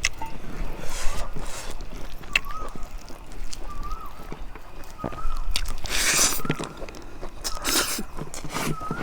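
Mouth sounds of eating a rice and fish-curry meal: bites, chewing and a couple of louder slurps or crunches, about six and eight seconds in. A faint short chirp repeats about once a second in the background.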